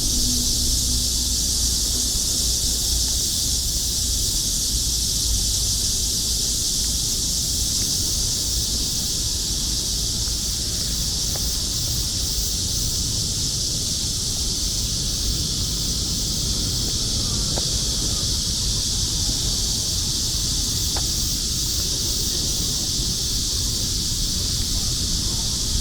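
Cicadas singing in a steady, high-pitched chorus, with a low rumble underneath.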